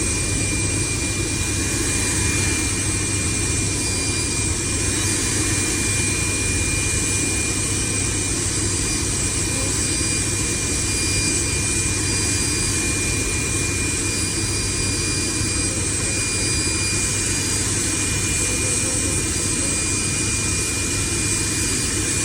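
Large power-plant turbine running steadily on its first start-up after an overhaul: a loud, even machine noise with a low hum and a thin, steady high whine, and a fainter higher tone that comes and goes.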